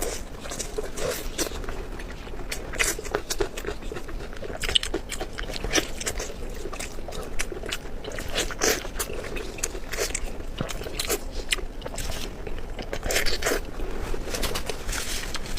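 A person chewing and biting food close to the microphone: a steady run of irregular small sharp clicks and crackles with wet mouth sounds.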